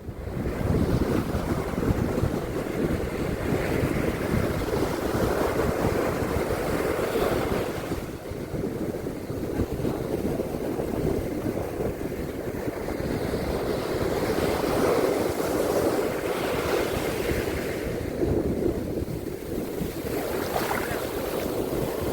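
Surf washing on a beach, a steady rushing noise that swells and eases, with wind buffeting the microphone.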